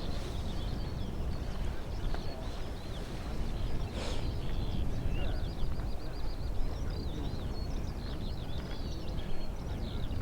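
Songbirds chirping and singing, many short quick repeated notes, over a steady low rumble. A single brief click or knock about four seconds in.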